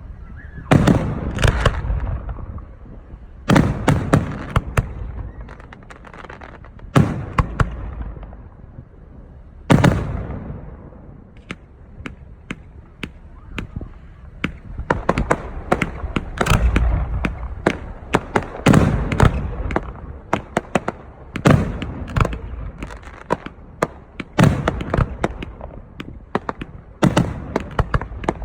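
Aerial fireworks display: shell bursts booming every second or two, each with a rolling echo, mixed with volleys of crackling snaps that grow denser through the second half.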